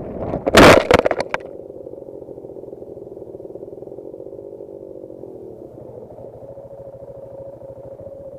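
Dirt bike crash: a short cluster of loud impacts and clatter about half a second in, then the dirt bike's engine running on steadily at a low idle.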